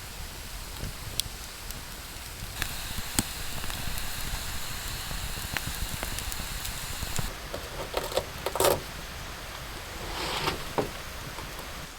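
Wood campfire crackling, with scattered sharp pops and a light hiss, and a brief clatter of handling about eight and a half seconds in.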